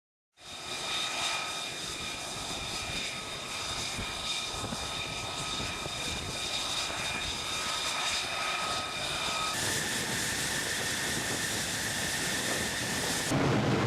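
F-35C jet engine running with a steady roar and several high whining tones. About nine and a half seconds in, the sound cuts abruptly to a single higher whine over louder hiss, and near the end to a louder, deeper rumble.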